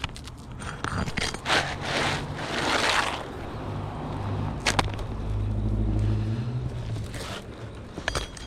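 Scraping and rustling of roof shingles being worked loose by hand, with a sharp click near the middle. A low steady hum runs underneath from about four to seven seconds in.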